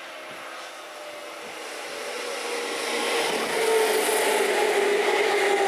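A 9000-series electric commuter train approaching and passing close by, growing steadily louder for about three and a half seconds and then holding loud. Running noise with a whine that drops slightly in pitch as the cars go past.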